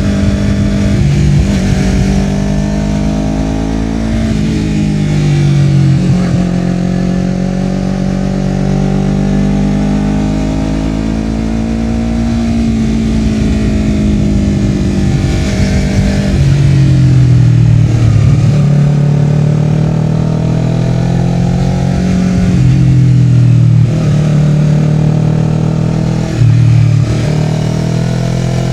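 Honda CBR250RR parallel-twin through a Yoshimura R-11 slip-on exhaust, ridden at speed. The engine note climbs and falls with the throttle, with several quick drops in revs between pulls.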